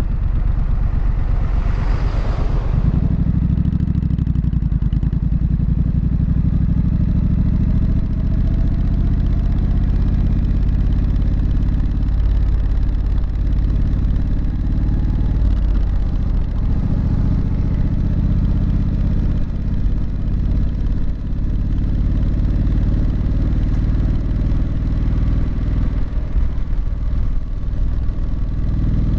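Triumph Street Scrambler's 900 cc parallel-twin engine and exhaust running steadily while the bike is ridden, with a short rush of noise about two seconds in.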